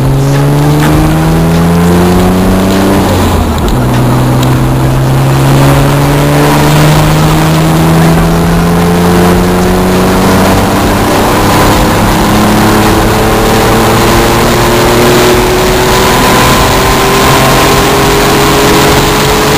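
The twin-turbo V6 of a 1992 Mitsubishi 3000GT VR-4, fitted with 16T turbos, pulls hard, heard from inside the cabin. The revs climb, drop suddenly at a gear change about three and a half seconds in, then climb slowly and steadily through the next gear.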